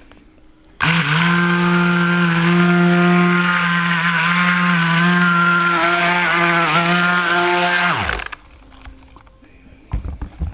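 Stick blender running in raw soap batter, blending in titanium dioxide: a loud, steady motor hum that starts about a second in, wavers slightly near the end, and falls in pitch as it is switched off after about seven seconds.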